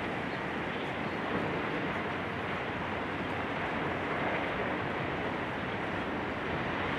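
Steady, even noise from a building demolition site, with no distinct knocks or crashes.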